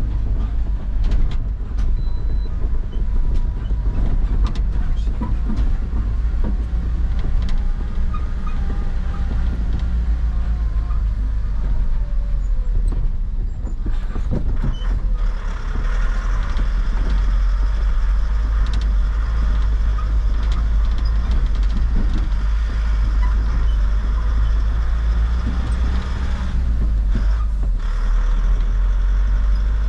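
Truck engine running with a steady low drone, with scattered rattles and knocks over it.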